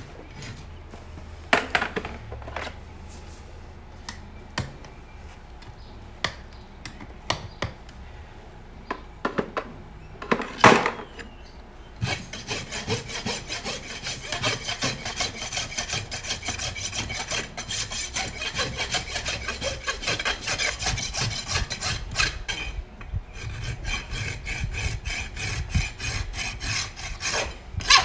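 Scattered sharp knocks and taps, then from about twelve seconds in a farrier's rasp filing rapidly back and forth over the hoof and shoe, with a brief pause near the end, taking the toe clip down flush with the shoe.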